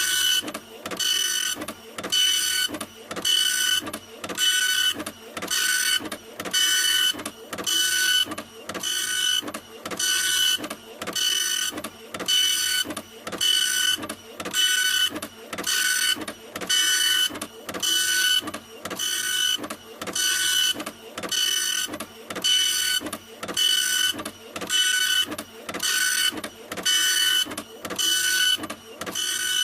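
A printer running continuously, with a cycle of a hiss and a whine repeating evenly about every second and a third, like print-head passes.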